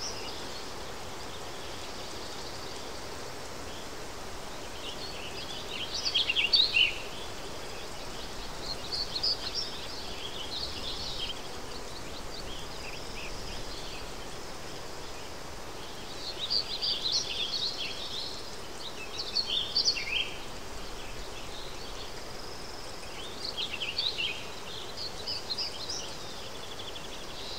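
Birds singing in short, twittering phrases every few seconds over a steady background of outdoor noise.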